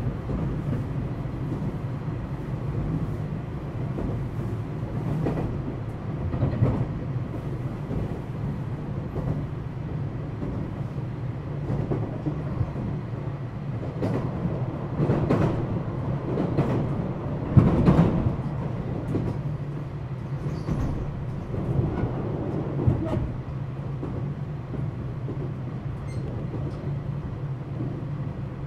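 Running sound heard inside a JR West 227 series electric train's motor car (KuMoHa 227-68) between stations: a steady low rumble of wheels on rail with a low hum, broken by occasional clacks over the track, the loudest about 18 seconds in.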